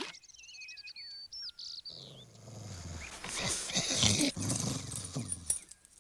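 Cartoon sound effects: high squeaky chirps that glide up and down for about two seconds, then a low rumbling growl.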